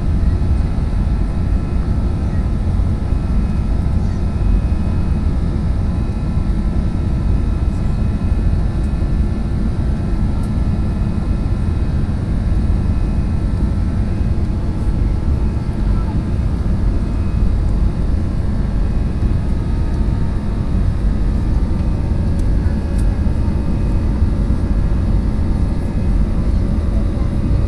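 Steady low rumble of engine and airflow noise heard inside an airliner cabin in flight, with a few faint steady whining tones above it.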